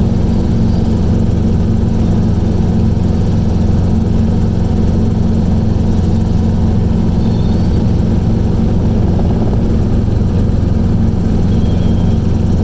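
Steady drone of a small aircraft's engine in flight, an even low hum that holds level throughout.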